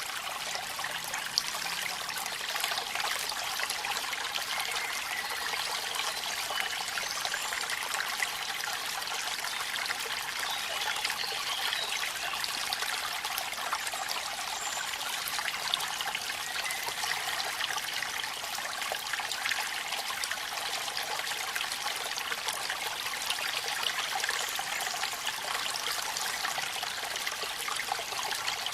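Steady hiss of running water at a waterfall on a rainy night, trickling and splashing, with many fine drips and patters through it.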